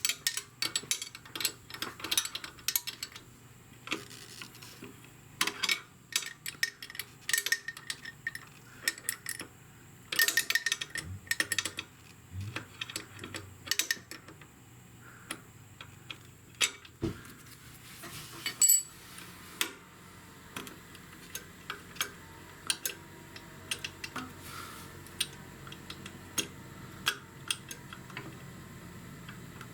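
Wrenches clicking and clinking on the lock nut and threaded pushrod of a motorcycle's rear brake pedal adjuster while a tight lock nut is worked loose. The metal clicks come irregularly, busiest in the first half and sparser later on.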